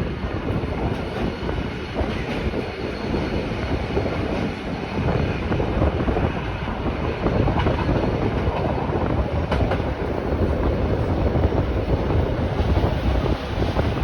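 Rhaetian Railway regional train running on the Bernina line, heard from on board: a steady rumble of wheels on rail that grows louder about halfway through.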